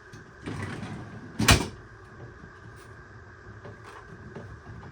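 A brief sliding rattle, then one sharp knock as a part of the bottom freezer drawer is handled. It sounds like a drawer or door being moved and bumped shut.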